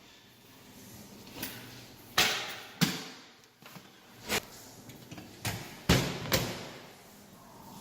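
A series of about six sharp knocks and clunks, spread unevenly over several seconds, the loudest near the middle. They are the handling noises of people moving about a just-parked car.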